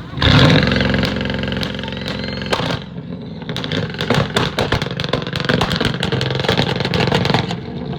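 A car's engine revving hard, then its exhaust popping and crackling in rapid sharp cracks for several seconds, sounding like gunshots.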